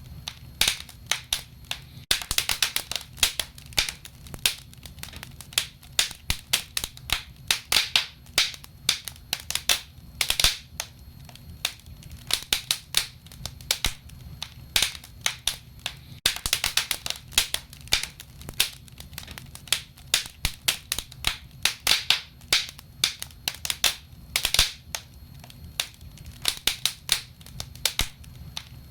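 Burning wood crackling and popping: dense, irregular sharp snaps over a low steady rumble.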